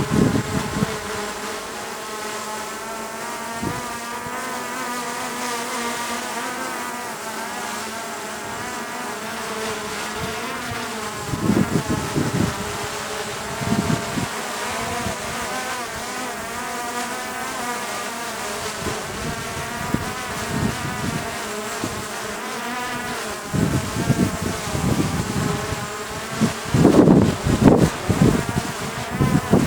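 DJI drone's propellers whining steadily as it hovers, the pitch wavering slightly as the motors work to hold position in strong, gusty wind. Wind buffets the microphone in low rumbling gusts, a couple in the middle and heavier near the end.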